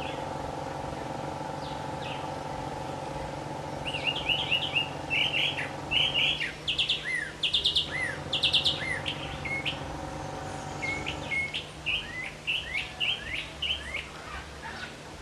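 Birds chirping: a quick series of short chirps and down-slurred notes, starting about four seconds in and continuing nearly to the end, over a faint steady hum.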